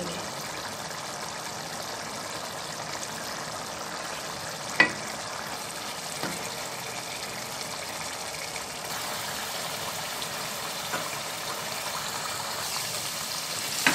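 Minced meat sizzling and bubbling in a kadai over high flame as its liquid cooks off, with one sharp tap about five seconds in.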